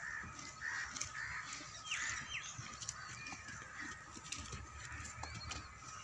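Birds calling: a series of short calls repeated every half second or so, with a faint low rumble about two-thirds of the way in.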